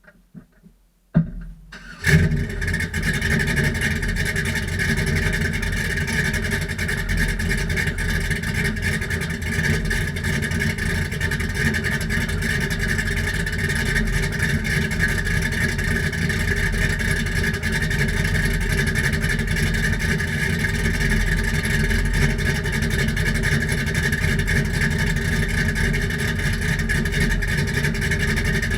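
2000 Camaro SS's LS1 V8 starting through true dual exhaust with Flowmaster single-chamber mufflers: a brief crank about a second in, catching at about two seconds, then idling steadily.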